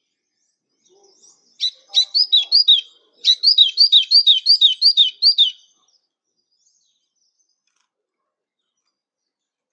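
A songbird singing two quick high-pitched phrases of repeated down-slurred notes: a short one, a brief pause, then a longer run of about nine notes that stops about halfway through.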